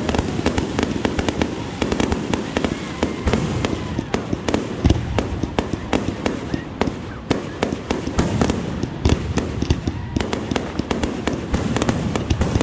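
Fireworks going off in quick succession: a dense, continuous run of bangs and crackling pops, with louder booms scattered through.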